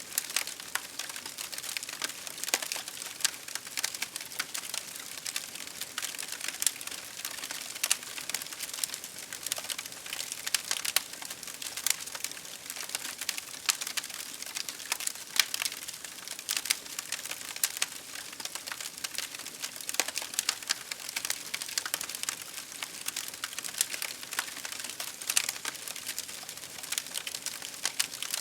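Campfire crackling, with dense irregular pops and snaps over a steady hiss.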